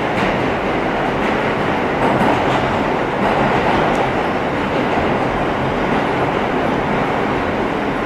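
Interior of an R160 subway car running between stations, a steady noise of wheels on the rails with occasional faint clicks from rail joints.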